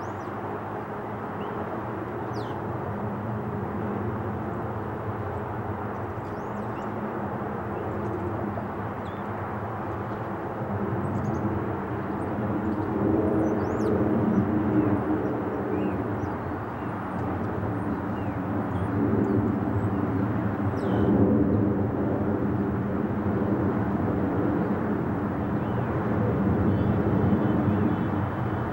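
Airbus A330 jet engines heard from a distance, a steady rumble with a droning tone that grows louder about halfway through.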